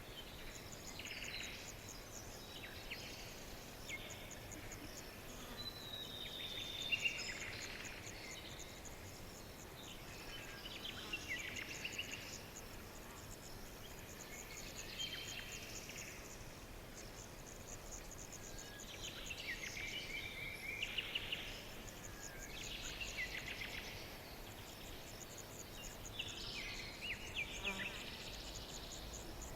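Songbirds singing: overlapping short chirps and rapid trills in phrases every second or two, over a faint steady hiss.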